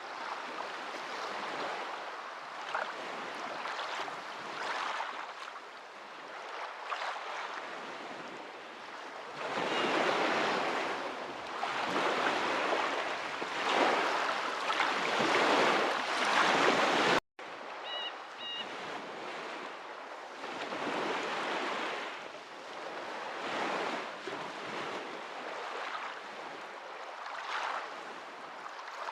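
Waves washing in, the water noise rising and falling in slow swells and growing louder through the middle. It cuts out abruptly for a moment a little past halfway, then resumes more softly.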